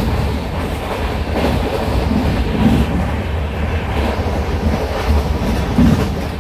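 Passenger train running along the track: a steady, loud rumble of wheels and carriage.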